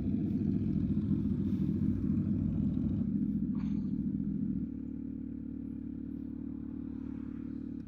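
2023 Kawasaki Z900's inline-four engine through a full Leo Vince exhaust, running under throttle, then dropping to a quieter, steadier note about four and a half seconds in.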